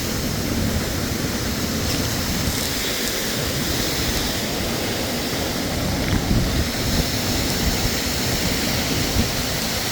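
Waterfall on a creek rushing steadily, a constant even roar of falling water.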